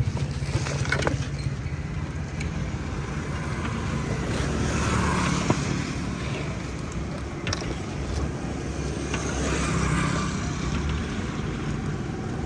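Road traffic: a steady engine hum with vehicles passing, swelling about five seconds in and again near ten seconds, with a few light clicks.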